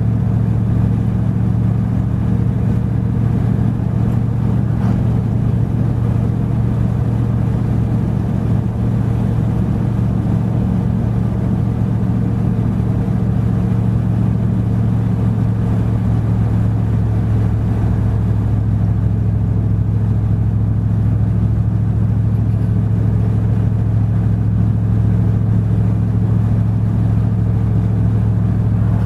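Truck engine running steadily while driving: a constant low drone with no change in pitch.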